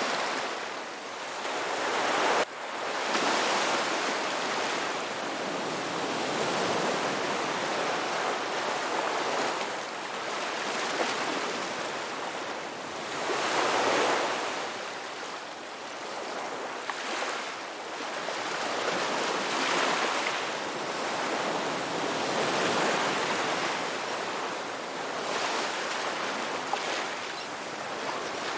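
Ocean waves breaking and washing onto a shore: a continuous surf hiss that swells and ebbs every few seconds, with a sudden short break about two and a half seconds in.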